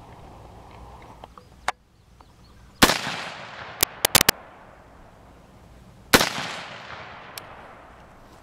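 Two rifle shots about three seconds apart, each followed by an echo that fades over a couple of seconds, with a few light clicks between them. No Tannerite explosion follows: the shots miss the target.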